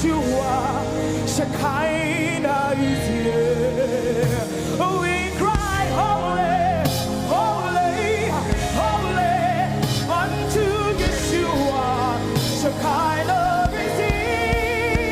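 Live worship music: a vocalist singing with heavy vibrato and runs over a sustained band accompaniment with keyboard and drums.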